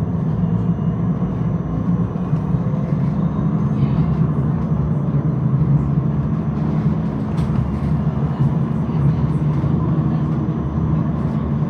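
Tram running along the track, heard from inside the car: a steady low rumble with a thin, faint high whine held over it and a few light clicks.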